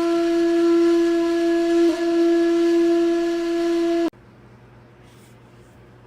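A single long, steady horn-like wind-instrument tone, held at one pitch, with a brief waver about two seconds in. It cuts off abruptly about four seconds in. It is played as the sound supposed to remind cats how they were worshipped in ancient Egypt.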